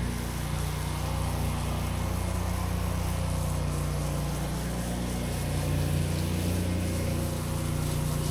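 Gasoline engine of a pressure-washing rig running steadily, with a slight change in its note about six seconds in.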